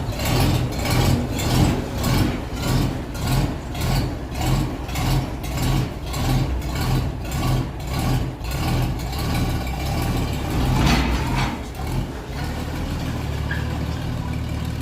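Large vintage tractor engine running slowly with an even, heavy beat about twice a second. Near the end a brief hiss is heard and the beat gives way to a steadier, smoother engine note.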